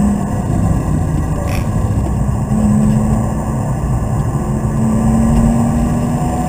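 BMW Z3 coupe's engine heard from inside the cabin, pulling hard at track speed over heavy road and tyre noise. Its steady note eases about half a second in and builds again from about two and a half seconds in.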